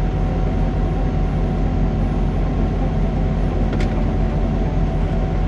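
Semi truck engine running with a steady low drone. There is a short faint click a little under four seconds in.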